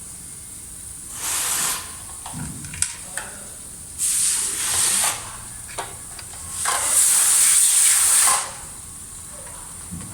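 Three bursts of hissing noise, the last the longest and loudest, with a few small clicks between them.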